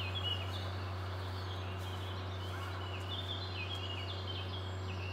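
A small bird singing a fast, chattering song of short repeated chirps over a steady low hum.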